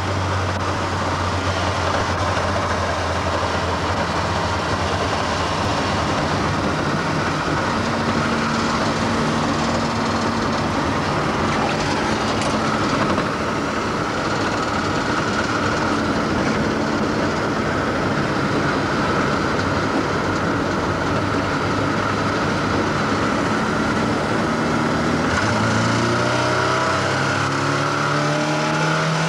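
Ford Escort Mk1 RS2000's 2.0-litre four-cylinder engine and road noise heard from inside the cabin while driving at a steady pace. Near the end the engine revs climb as the car accelerates.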